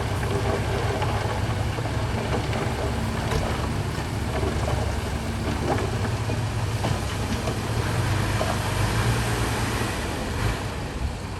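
Dump truck's diesel engine running steadily with a deep rumble and some light clatter. It swells briefly, then eases off shortly before the end.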